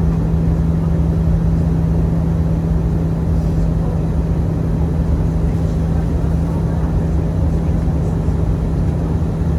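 Airbus A319 cabin noise: a steady drone of engines and rushing air with a constant low hum.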